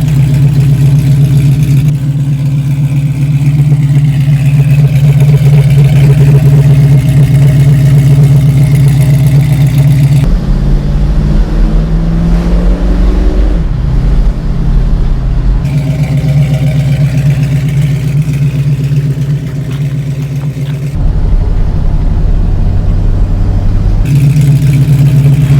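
A 1967 Ford Mustang's 289 V8 running while driving, a loud steady engine note whose pitch rises briefly about eleven to thirteen seconds in. The sound changes abruptly several times, as between edited takes.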